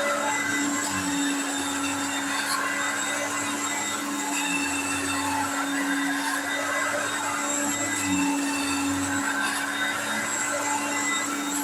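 Hoover Concept One vacuum cleaner running steadily: a constant motor hum with a high whine over the rush of air.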